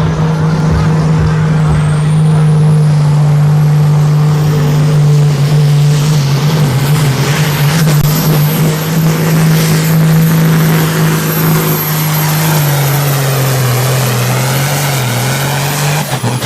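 Super Sport class pulling tractor's diesel engine running hard and steady through a pull, with a high whine that rises in about two seconds in and holds. The engine note drops slightly about twelve seconds in, and the sound cuts off near the end.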